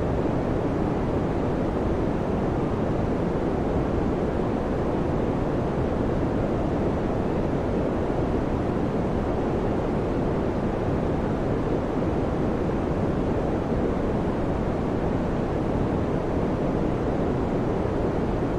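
Electric fan running steadily: an even, deep whoosh of air with no change in level or pitch.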